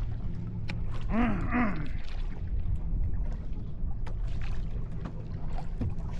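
Tour boat's engine running with a low steady hum. About a second in, a person gives a short two-syllable vocal sound.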